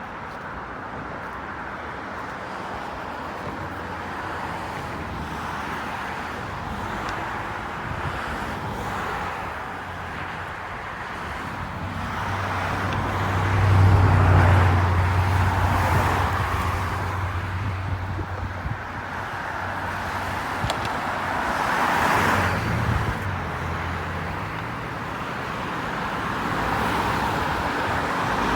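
Road traffic: cars passing one after another, the sound swelling and fading, with the loudest pass about halfway through.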